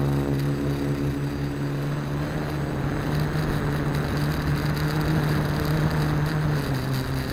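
AeroQuad quadcopter's motors and propellers whirring in a steady hum, its pitch wavering slightly and dipping near the end, with wind rumbling on the microphone.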